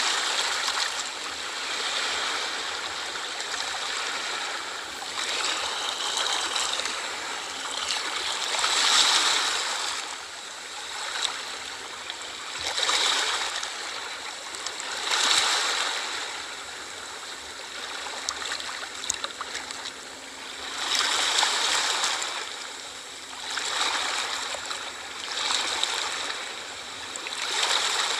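Sea waves breaking and washing in, a continuous rushing that swells and fades with each wave every few seconds.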